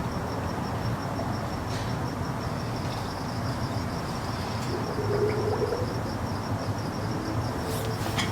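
A cricket chirping in a fast, even pulse of high notes, over a steady low hum.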